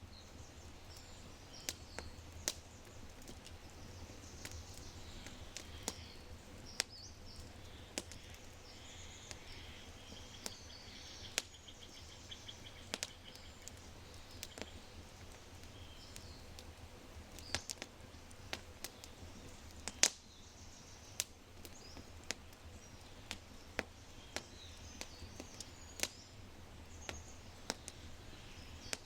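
Oak fire crackling in a brick fireplace, with frequent sharp pops at irregular intervals, the loudest about twenty seconds in, over a low steady rumble. Small birds chirp and sing throughout, with a rapid trill near the middle.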